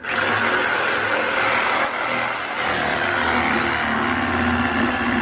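Milwaukee Sawzall reciprocating saw with a carbide wrecker blade cutting through a wooden railroad tie, running steadily.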